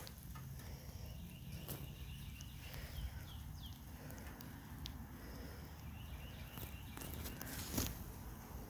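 Footsteps walking outdoors, with faint chirping calls in the background.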